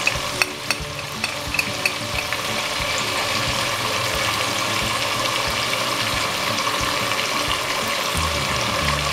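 Bone-in beef pieces sizzling steadily as they fry in hot oil in a pot, with a few light clicks in the first couple of seconds.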